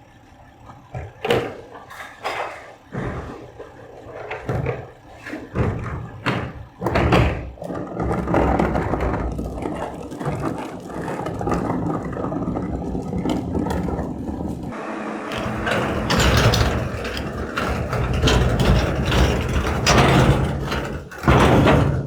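Garbage truck at work: scattered knocks and clatter, then the truck running loud and steady with mechanical rattling. The noise grows harsher about two-thirds of the way through and cuts off suddenly at the end.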